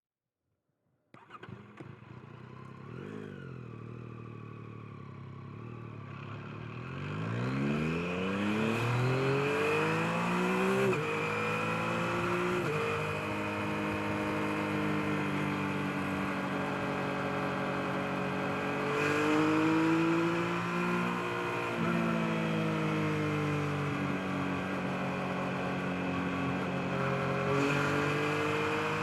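Yamaha MT-09's 890 cc inline three-cylinder engine, first running at a low steady idle from about a second in. From about seven seconds in the revs climb steeply as the bike pulls away. It then settles into a steady cruise, with the engine speed gently rising and falling.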